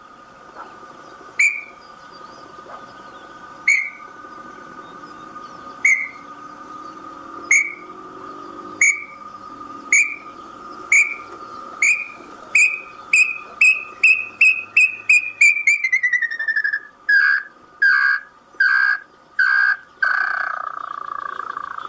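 Small-billed tinamou singing: single whistled notes about two seconds apart come faster and faster, slide lower in a quick run, and end in a few longer, lower, down-slurred whistles. A steady drone runs underneath.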